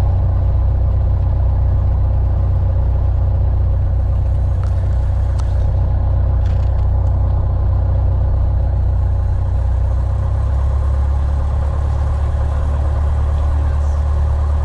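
Piper Warrior's four-cylinder Lycoming piston engine and propeller running steadily, heard from inside the small plane's cabin as a loud, even drone. The low note shifts slightly about ten seconds in, and a few faint clicks sit under it.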